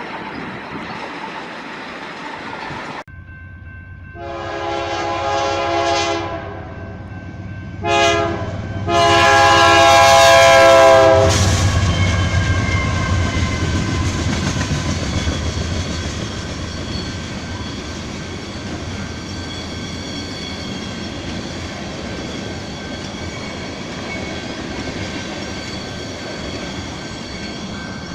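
Diesel locomotive's horn sounding three blasts: one about two seconds long, a short one, then a longer one. The locomotive then passes close with a loud low engine rumble, which settles into the steady rolling noise of a long string of tanker wagons, with a faint high whine. Before the horn there is a few seconds of rolling train noise that cuts off abruptly.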